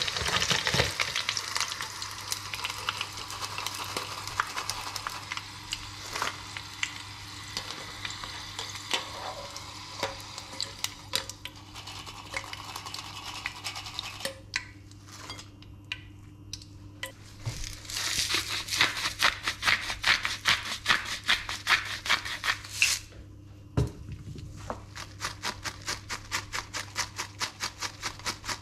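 Potato fries sizzling and crackling in hot oil in a small pan while a wire mesh strainer scrapes and lifts them out. The frying dies down about halfway through, and in the last ten seconds or so there is a fast, regular rubbing at about four strokes a second as the fries are shaken in a paper-lined bowl.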